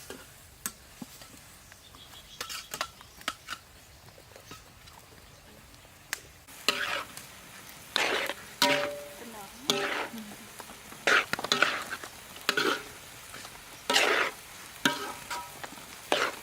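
Fried rice being stir-fried with a spatula in a hot pan. There is faint sizzling with light taps at first, and from about six seconds in, loud scraping strokes of the spatula against the pan about once a second.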